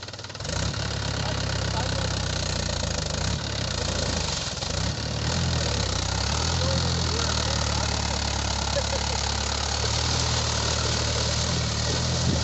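Tractor engine running steadily. It gets louder about half a second in, and its note shifts briefly a couple of times before settling.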